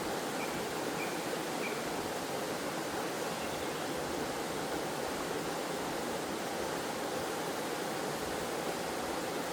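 Steady rushing of water falling and flowing over a forest waterfall and stream: a constant, even noise.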